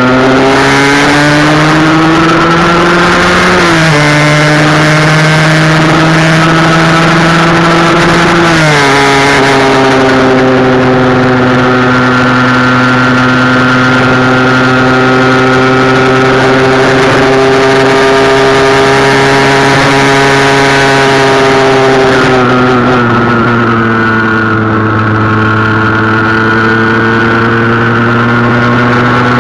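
Husqvarna SM 125 two-stroke single engine, its exhaust restrictor blocks cut out, under way: engine pitch climbs and drops sharply twice in the first nine seconds as it shifts up through the gears, then holds nearly steady at speed and eases down once later on.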